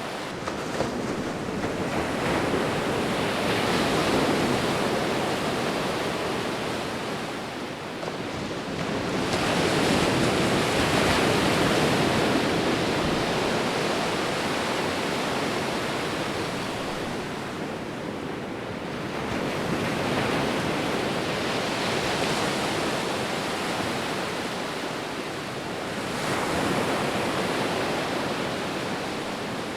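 Sea waves breaking and washing onto a shore, a steady rush of surf that swells and fades with each wave about every eight or nine seconds.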